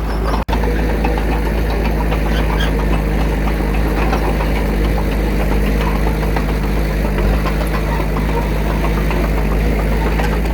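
Diesel engine of heavy earthmoving machinery running steadily. The sound drops out for an instant about half a second in.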